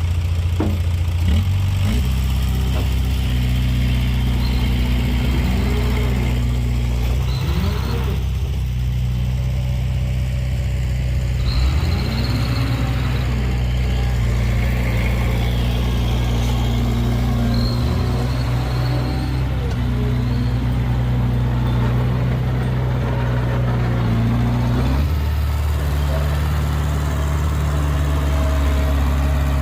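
An engine running steadily, its pitch shifting to a new steady speed about two seconds in and again near the end.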